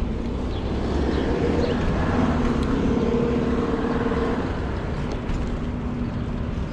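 Road traffic with a steady low rumble; a motor vehicle's engine hum swells and fades in the middle.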